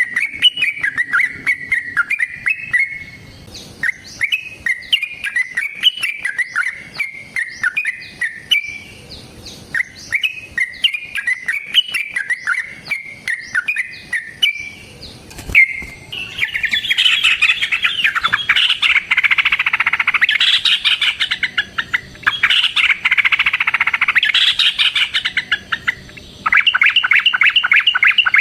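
Yellow-vented bulbul (trucukan) singing: short bubbly chirping phrases repeated every second or two, then about halfway a long, dense, rapid chatter. Near the end it breaks into a fast, even trill.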